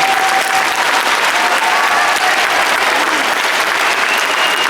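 Audience applauding steadily, a dense patter of many hands clapping, with a few faint held tones of whistles or voices on top.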